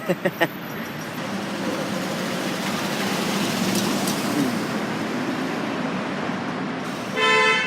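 Steady road traffic noise, with a car horn sounding once, briefly and loudly, near the end.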